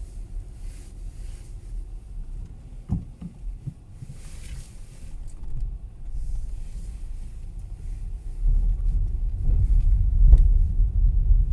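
Car cabin rumble from engine and tyres on the road while driving, growing louder about two-thirds of the way through. A sharp knock sounds about three seconds in.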